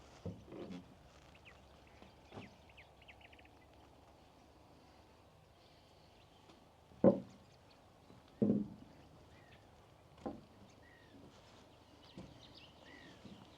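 Slow footsteps thudding on wooden dock boards, a few steps a second or two apart, with faint bird chirps and a short trill about three seconds in.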